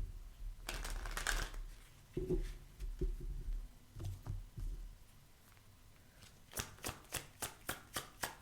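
Tarot cards being handled and shuffled: loose rustling and sliding at first, then from about six and a half seconds in a steady run of quick card slaps, about four a second.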